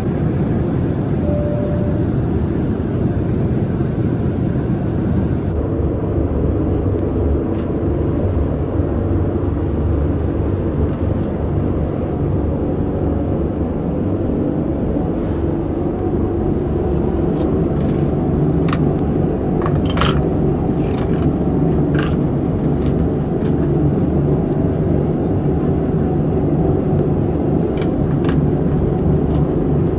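Steady, loud rumble heard from inside a moving vehicle, with a few sharp clicks around the middle.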